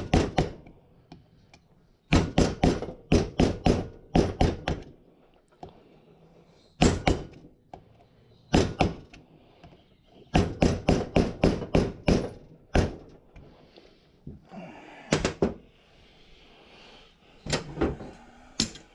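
Hammer blows on a spin-on oil filter on a workbench, struck to break the used filter open. The blows come in runs of quick strikes, about three a second, with pauses between the runs.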